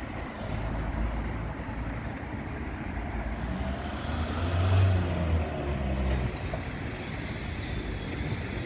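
A motor vehicle's engine running with road noise, swelling to its loudest about halfway through and then easing off.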